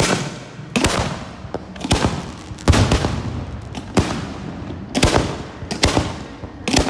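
Fireworks bursting: about ten sharp bangs, roughly one a second, each trailing off afterwards.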